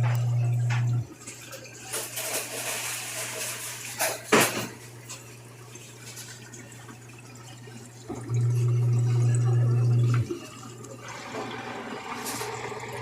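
Samsung 10.5 kg Wobble top-load washing machine with water in the tub. A motor hum runs in two spells about two seconds long, one ending about a second in and one starting about eight seconds in. Between them the water sloshes and splashes, with one sharp splash about four seconds in.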